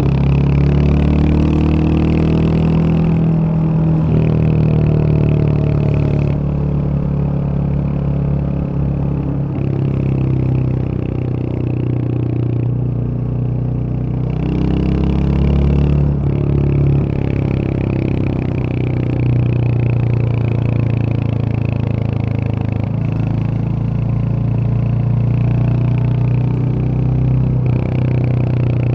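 Royal Enfield Hunter 350's single-cylinder engine running on the move, its pitch climbing and dropping several times as the rider accelerates and shifts gear.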